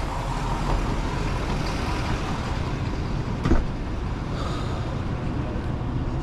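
Truck engine running steadily with a low rumble, with one short knock about three and a half seconds in.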